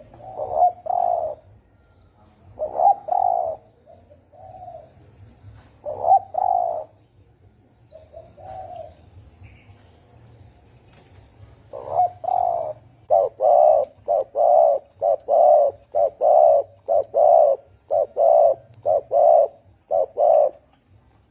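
Spotted dove cooing. A few spaced phrases come first, then from about twelve seconds in a quick, even run of about fifteen short coos.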